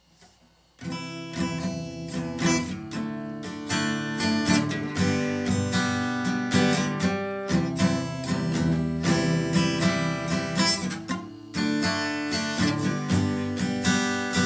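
Acoustic guitar strummed in a steady rhythm as the instrumental introduction to a folk song, starting about a second in.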